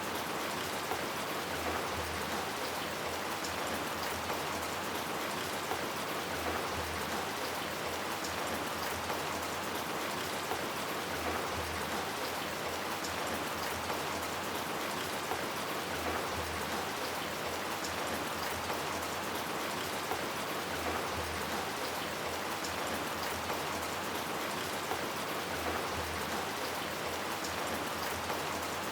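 Steady rain falling, an even hiss flecked with scattered drop ticks. A faint low pulse recurs about every five seconds beneath it.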